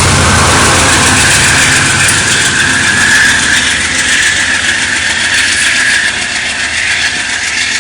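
Shore Line East push-pull passenger train, its ex-Amtrak GE P40DC diesel locomotive pushing at the rear, going past close by: the diesel engine and the wheels on the rails, fading a little toward the end as it moves away.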